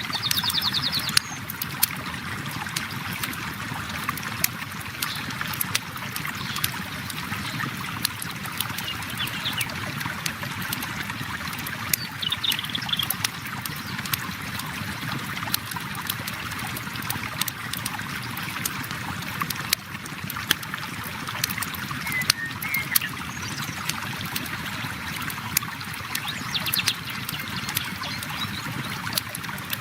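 A river flowing steadily, overlaid with a campfire crackling and popping in frequent sharp snaps.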